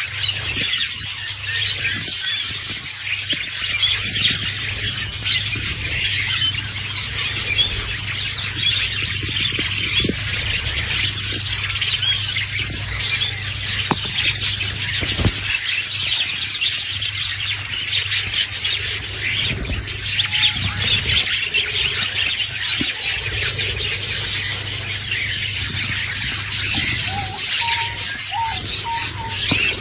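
Caged budgerigars (budgies) chattering and chirping nonstop, many quick overlapping warbles and squeaks, over a steady low hum.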